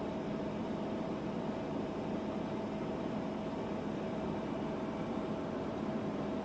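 Mercedes-Benz Future Truck 2025 driving at a steady speed: an even rumble of engine and road noise with a constant hum.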